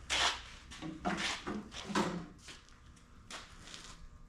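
A few scattered knocks and scrapes of heavy things being handled in a shop, over a steady low hum.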